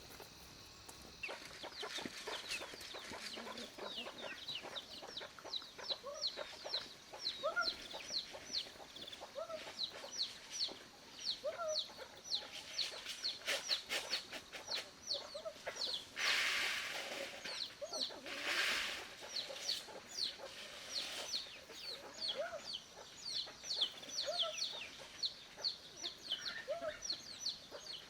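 Chickens: chicks peeping in quick high chirps, several a second, with a hen's lower clucks every second or two. Two short rustling noises come just past the middle.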